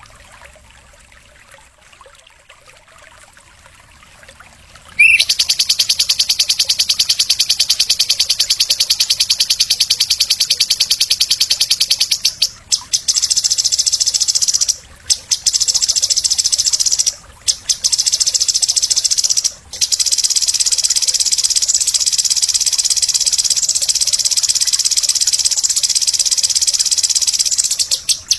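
A songbird's very high-pitched, fast, buzzing trill, played as bird-training (masteran) audio. It starts suddenly about five seconds in and runs on loudly, with a few short breaks.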